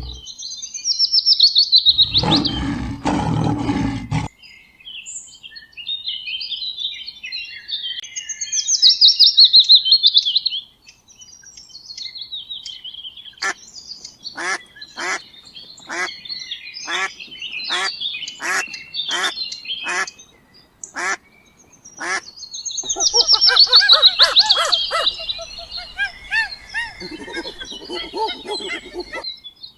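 Birds calling: loud, fast, descending trilled calls come three times, and in the middle there is a run of about a dozen short sharp calls, roughly two a second. About two seconds in there is a brief low rough sound.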